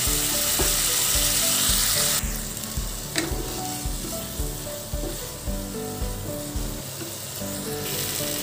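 Onion, tomato and spice paste sizzling in hot oil in a nonstick kadai just after a splash of water, stirred with a wooden spatula: the masala being fried down (kosha). The sizzle is strongest for the first two seconds, then settles, with a few scrapes of the spatula, and rises again near the end.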